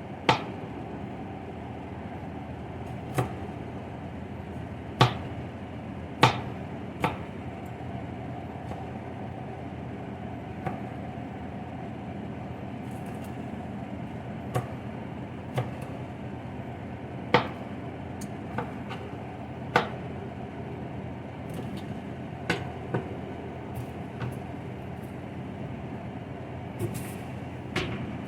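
Kitchen work: sharp knocks and clicks of utensils, pans and cupboards at irregular moments, over a steady hum.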